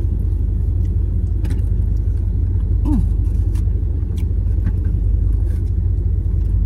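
Steady low rumble of a car running, heard from inside the cabin, with scattered faint clicks of eating and a brief hum of a voice about three seconds in.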